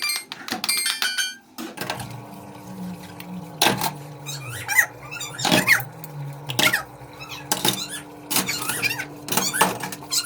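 Short high-pitched squeaks repeating roughly once a second, over a steady low hum.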